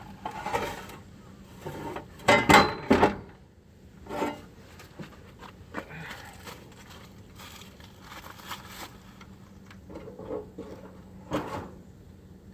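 Clunks, knocks and scraping of a tractor battery being lifted out and swapped, loudest in a cluster about two to three seconds in, then scattered lighter knocks.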